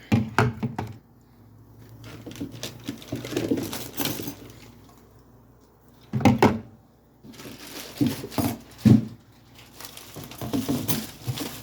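Grocery items being handled and set down: irregular knocks and light clatter, loudest about six seconds in and again near nine seconds, with softer handling noise between.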